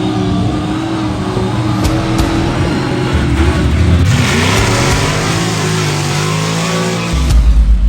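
A motor vehicle engine revving, its pitch dropping and climbing again several times.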